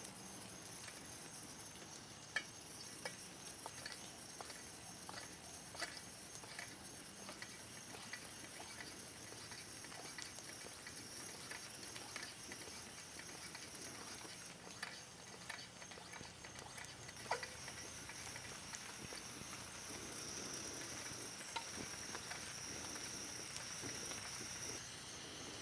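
Quiet handling noises of biscuit dough being pressed and worked by hand into fry pies: scattered light taps and pats on the work surface over a steady high hiss.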